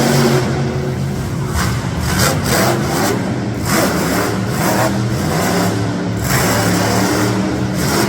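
Monster truck's big engine running loud, revving in repeated surges.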